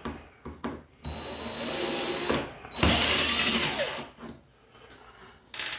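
Power screwdriver or drill running in two bursts of about a second each with a steady whine, backing screws out of a plastic keyboard case.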